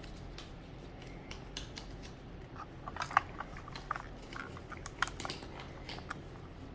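Small plastic packaging and toy pieces being handled, giving scattered light clicks and crinkles, busiest about three seconds in.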